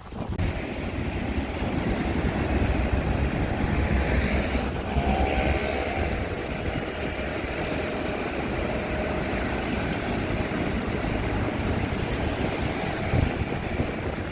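Boat engine running steadily as a low rumble, with wind buffeting the microphone.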